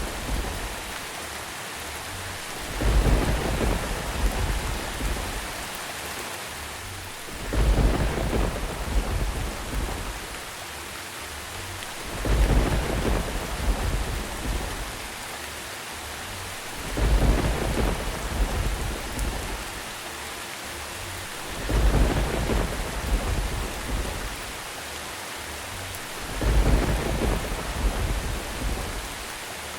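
Steady rain with rolls of thunder that swell up and fade, six times at an even pace of about one every four and a half seconds.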